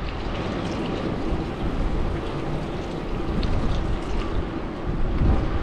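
Wind buffeting an action camera's microphone on a moving bicycle: a steady, low rushing noise in gusty conditions.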